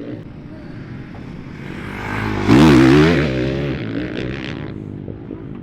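A dirt bike passing close by under throttle, its engine pitch rising and falling. It builds to a loud peak about two and a half seconds in, then fades away.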